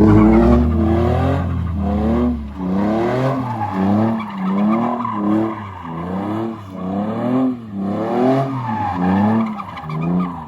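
Drift car's engine revving up and down over and over, about once every three quarters of a second, with tyre squeal as it slides around a U-turn.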